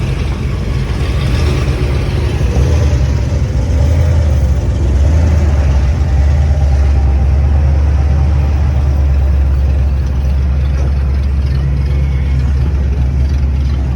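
A car engine running with a deep, steady exhaust rumble, swelling over the first couple of seconds and then holding loud.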